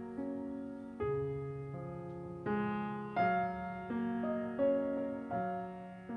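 Soft background piano music: slow, gentle chords and single notes, a new one struck about every second.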